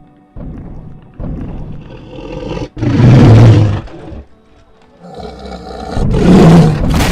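A large animal roaring: two loud, rough roars, one about three seconds in and one about six seconds in, with quieter rough sounds between them.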